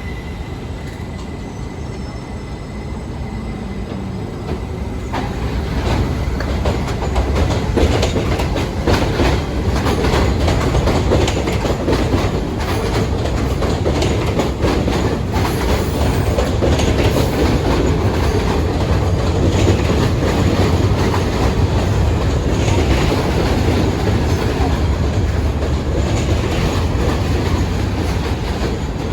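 New York City subway train running on elevated track, its wheels clattering over the rail joints; the sound grows louder about five seconds in and stays loud.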